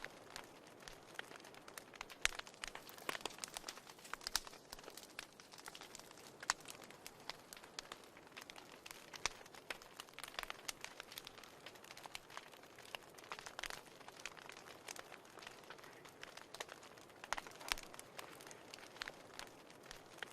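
Fire burning in a fireplace, crackling with irregular sharp pops and snaps over a soft steady hiss.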